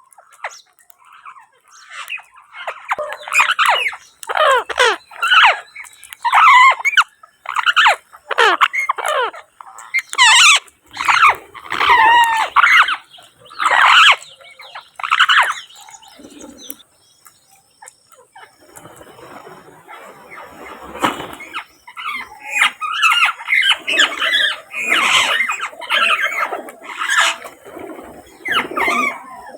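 Parrot squawking and screeching over and over, each call short and sliding in pitch, with a break a little past the middle filled by faint scratchy noise before the calls start again.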